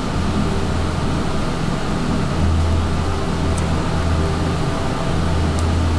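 Steady low hum with an even hiss, like a fan or air conditioner running, with two faint ticks in the second half.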